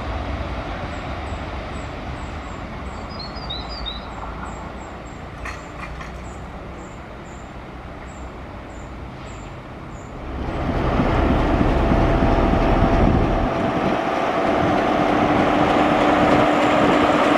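A diesel multiple unit running away along the line, its rumble slowly fading while small birds chirp. About ten seconds in, a louder diesel locomotive passing close by takes over, hauling coaches, with a steady engine hum.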